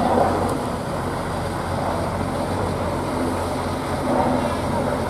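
Heavy truck engine running steadily at a low, even pitch.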